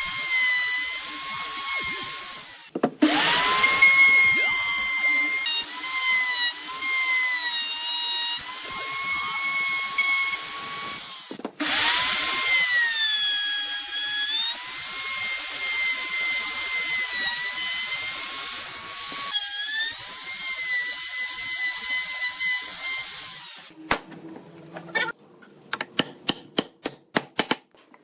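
Electric power tool cutting wood. Its motor whine dips in pitch as it bites and recovers, and it stops and restarts twice. Near the end it gives way to a rapid series of sharp taps.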